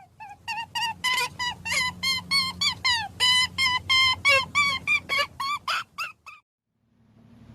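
An animal calling in a fast run of short, high chirps, several a second, some bending in pitch, that stops about six seconds in.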